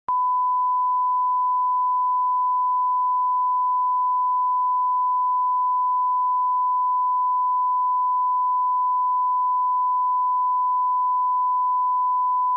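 Steady 1 kHz sine-wave line-up tone at −18 dBFS, a single pure, unbroken test tone for setting audio levels.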